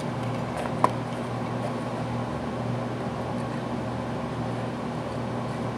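Transformer soldering gun humming steadily, its low electrical buzz swelling and easing as it is worked on a soldered wire joint, with one short sharp click about a second in.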